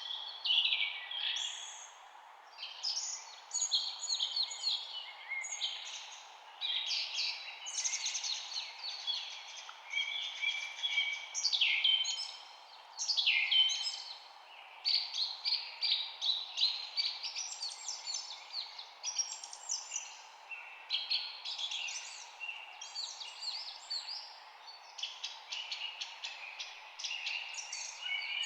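Several songbirds singing and chirping without pause, overlapping quick chirps and trills, over a faint steady hiss.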